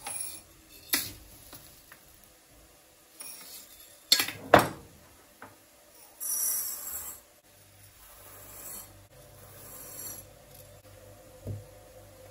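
Kitchen handling noises: scattered knocks and clicks of kitchenware being handled, with one loud knock about four and a half seconds in and a short scraping rub soon after.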